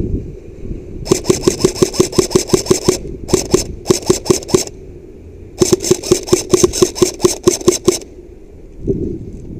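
Airsoft rifle firing on full auto in bursts of rapid shots: a long burst, two short ones, then another long burst.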